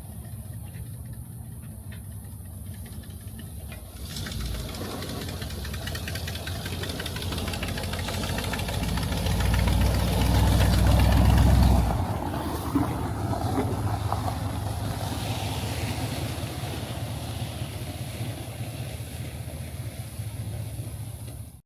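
Vehicle engine running with a steady low drone. It grows louder about a third of the way in, is loudest a little past the middle, then settles back.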